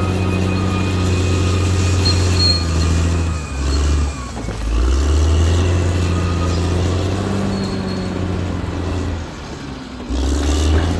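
Caterpillar D6R XL bulldozer's diesel engine running under load. It eases off briefly about three and a half seconds in and again near the end, then pulls back up, with thin, steady high-pitched squealing tones over it.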